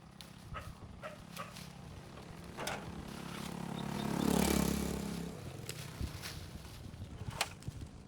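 A road vehicle passes close by, growing louder to a peak about halfway through and then fading, its engine pitch falling as it goes past. Short sharp knocks sound now and then throughout.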